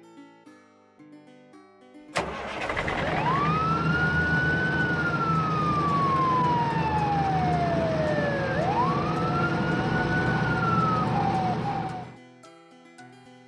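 Fire engine siren wailing up and slowly down, then up again, over a running engine. It starts with a sharp click about two seconds in and cuts off shortly before the end, with soft guitar music on either side.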